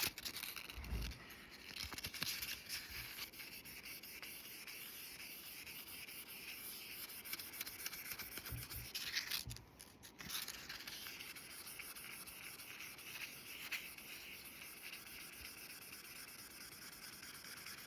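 Fine 1500-grit sandpaper rubbing on a steel axe head, wetted with a little spit or water, polishing surface rust off near the edge. It is faint and steady, with a brief pause about nine and a half seconds in.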